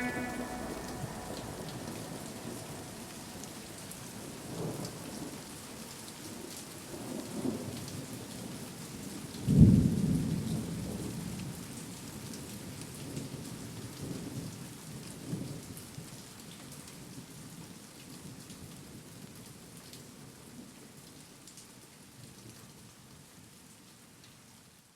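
Thunderstorm: steady rain with several rolls of low thunder, the loudest about ten seconds in, the whole sound fading out near the end.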